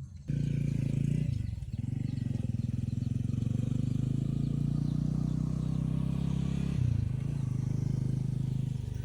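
Motorbike engine running steadily close by, with two brief dips in pitch, one about a second and a half in and one near seven seconds; it starts and stops abruptly.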